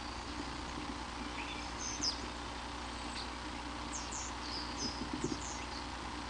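Small birds chirping in short, quick high notes, a few around two seconds in and a cluster between four and six seconds, over a steady hiss and low electrical hum.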